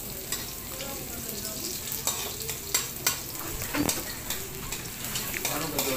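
Garlic and onion frying in hot oil in a metal wok: a steady sizzle, with irregular scraping clicks of a metal spatula stirring against the pan.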